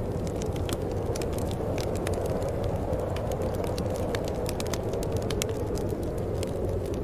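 Wood fire burning in a fireplace: a steady low rush of flames with frequent small, sharp crackles and pops at irregular intervals.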